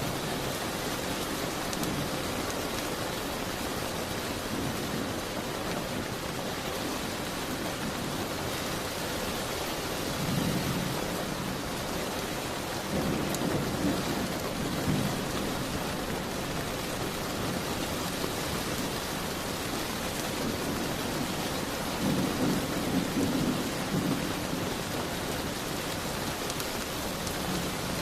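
Steady heavy rain with low rolls of distant thunder swelling up three times, about ten seconds in, around the middle and a little past two-thirds through.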